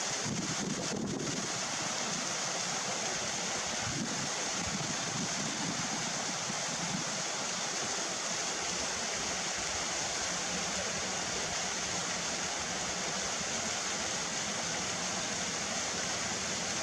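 Strong wind blowing, a steady rushing noise with wind buffeting the microphone, heavier about a second in and again around four seconds in.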